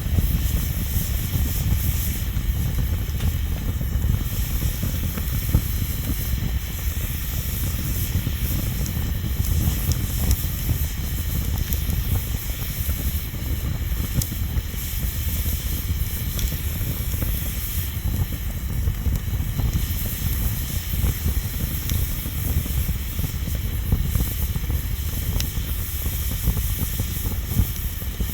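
Bonfire burning: a steady low rumble and hiss with a few faint scattered pops.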